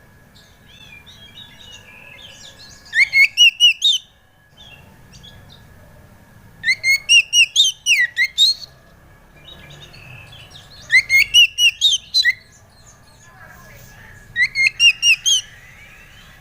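Oriental magpie-robin (kacer) song played as a lure recording: four loud bursts of six to eight quick, clear rising-and-falling whistled notes, each burst about a second long, with pauses of a few seconds between. A faint steady high tone runs underneath.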